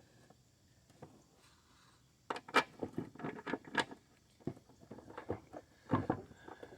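Scattered metal clinks and taps, starting about two seconds in and running for several seconds, from a bolt and hand tools being worked as an engine mounting bolt is fitted into a mower deck.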